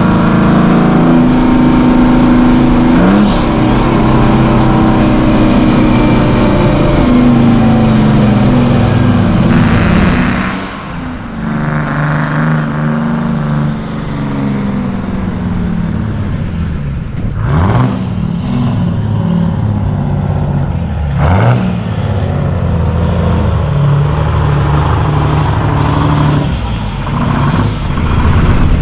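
Vintage semi-truck diesel engines running under load, their pitch climbing and falling as the trucks accelerate and shift gears. The sound changes abruptly about ten seconds in, with a different engine after that.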